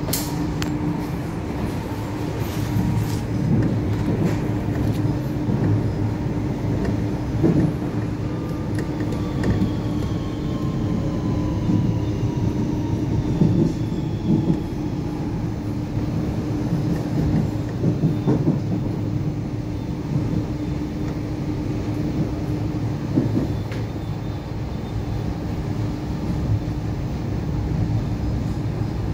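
Inside a moving DART 8520 class electric multiple unit: steady running rumble with a constant hum and scattered clicks from the track, and a faint whine falling in pitch about a third of the way in.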